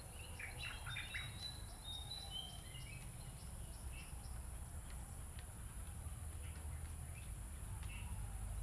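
Birds chirping and calling, with a cluster of short gliding chirps in the first couple of seconds and fainter scattered ones after, over a steady low hum.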